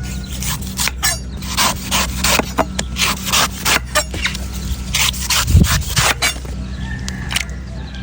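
Knife cutting a coconut: a quick, irregular run of chops and scraping strokes, with one heavier thud about five and a half seconds in.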